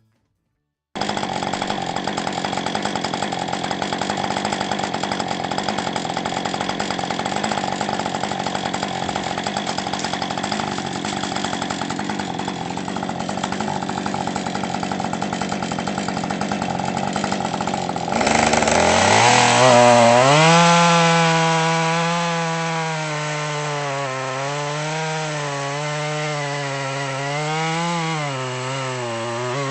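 Husqvarna 550 XP two-stroke chainsaw running at high revs while cutting firewood logs. About two-thirds of the way in the engine note comes through more clearly and louder, its pitch rising and falling again and again.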